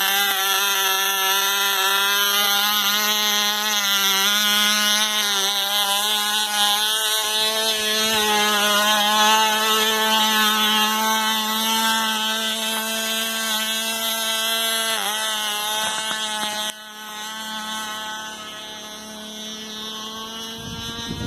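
Cox .049 (0.8 cc) model glow engine running at high speed with a steady, high-pitched buzz. Its pitch dips briefly about 15 seconds in, and it becomes quieter about 17 seconds in.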